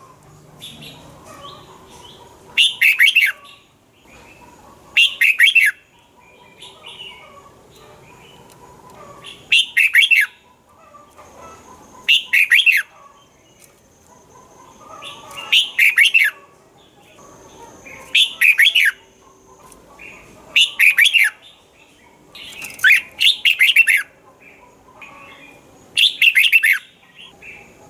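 Red-whiskered bulbul singing: short, loud phrases of quick falling notes, repeated every two to three seconds, with softer twittering between them.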